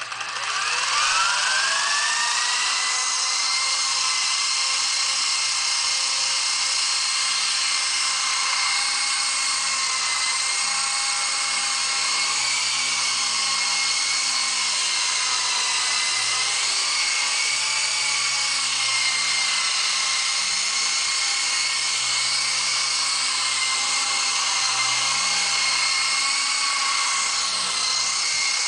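Megatech Housefly 2 indoor RC helicopter's electric motors and rotors spooling up: a high whine rising in pitch over the first couple of seconds, then holding steady in flight with slight wavers as the throttle changes.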